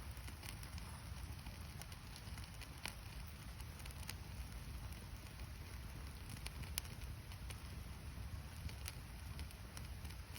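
Campfire of gathered firewood, damp from the previous day's rain, burning with a steady low rush and a few sharp pops and crackles scattered through.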